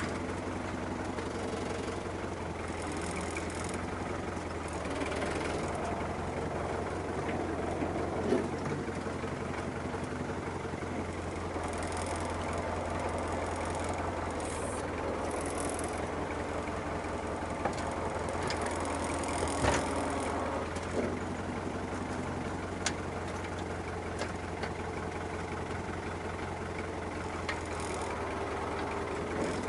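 Fiat 640 tractor's diesel engine running steadily while loading manure with its loader, with a few short, sharp knocks along the way.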